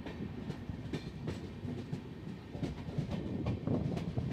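Indian Railways train running, heard from on board the coach: a steady low rumble of wheels on the rails with irregular clicks and knocks.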